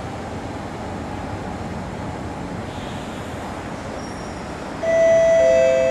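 Steady running noise of an SMRT C751B train standing at the platform. About five seconds in, a louder two-note descending ding-dong chime from the station public address system, the chime that comes before a spoken announcement.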